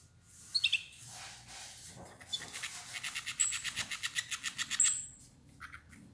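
Domestic canaries chirping. A few brief high notes come first, then a fast series of about ten notes a second for a couple of seconds, with short high whistles in it.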